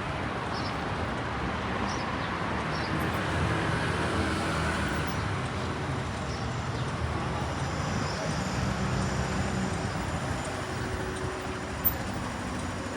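Steady city street traffic, with engines of passing vehicles running and rising and falling. A single sharp click comes near the end.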